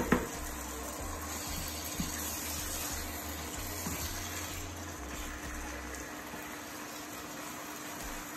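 Chicken liver curry sizzling steadily in a wide pan on an induction hob as the liver cooks in its own released liquid, stirred with a spatula that gives a couple of light clicks against the pan. A faint steady low hum sits under it.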